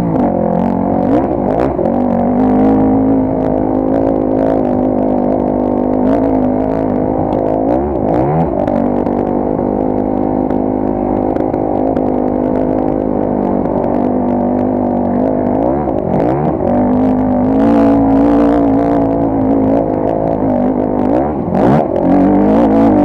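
Trail motorcycle engine running at a steady pitch, with brief dips and rises in revs about a second in, then near eight, sixteen and twenty-one seconds. Scattered short clicks and knocks ride over it.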